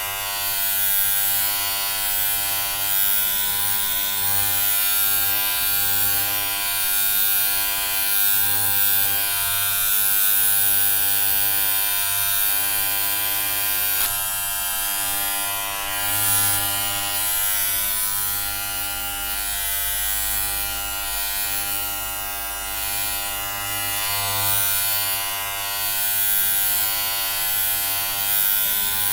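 Electric hair clippers running with a steady buzz, a dense pitched hum topped by a bright hiss, swelling slightly now and then.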